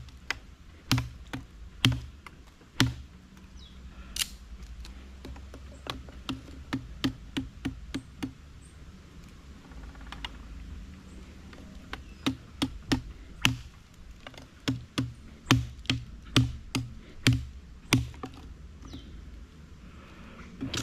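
Repeated sharp knocks of a blade chopping at wood: a few spaced strokes at first, then a quicker run of about two strokes a second in the second half.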